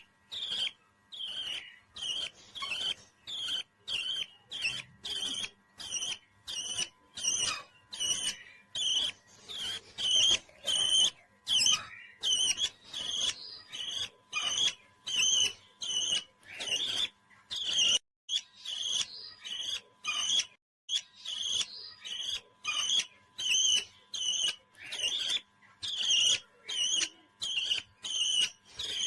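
Parrot calling in a steady series of short, high chirps, about two a second.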